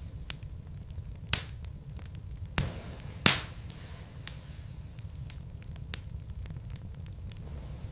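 Wood burning in a fireplace, the logs crackling with many small ticks and a few sharper pops, the loudest a little past three seconds in, over a low steady rumble.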